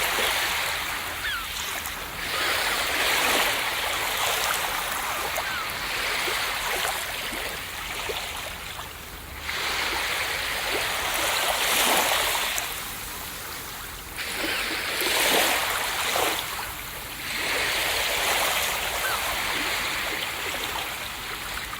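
Ocean waves breaking and washing up on a beach: a hissing rush of surf that swells and fades again every few seconds.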